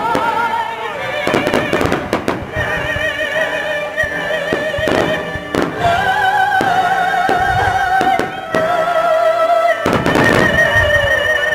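Fireworks going off in several sharp bangs over orchestral music with a singer holding long wavering notes.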